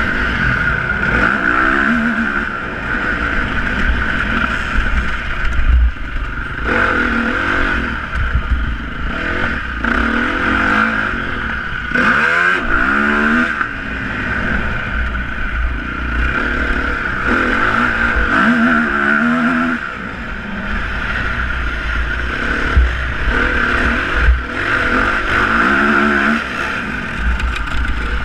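Motocross motorcycle engines revving up and down, their pitch rising and falling again and again, over a steady high whine and a low rumble.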